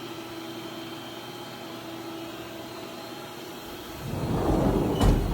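Steady hum with faint high whines from a powered-up Haas VF-2SS vertical machining center. About four seconds in, a louder rushing noise swells for about a second and ends with a sharp click.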